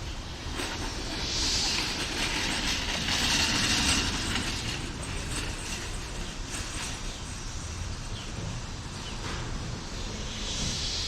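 Hissing white noise from a Flock Free Sonic Net bird deterrent speaker, swelling and fading several times over a low rumble.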